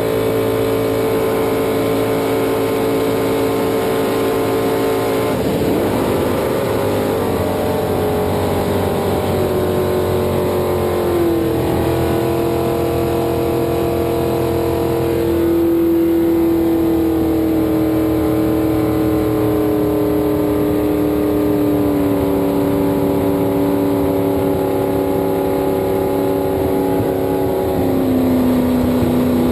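Drag jet boat's big-block V8 engine running at steady revs, its pitch easing down in small steps several times, with a brief rougher patch about five seconds in.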